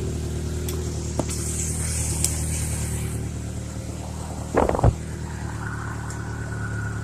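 1995 Ford Ranger engine idling steadily just after a cold start, running smoothly and not rough. A brief louder noise cuts in about four and a half seconds in.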